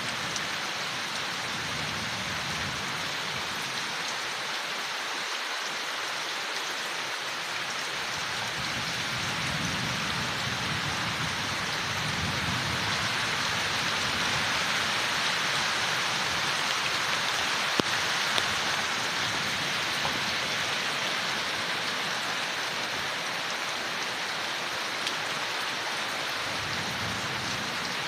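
Steady rain falling on leaves, swelling slightly in the middle, with an occasional sharper drop tick.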